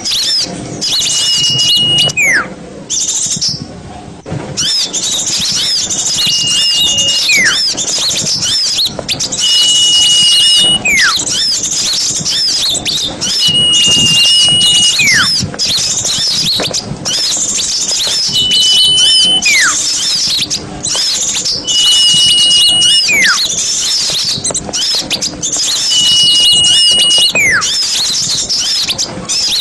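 A dense, loud chorus of small songbirds chattering and twittering. About every four seconds a clear held whistle sounds, followed by a steeply falling whistle, repeating like a loop.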